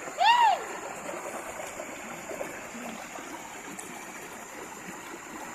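Steady rush of water from a small waterfall and its stream, with one brief rising-and-falling call just after the start.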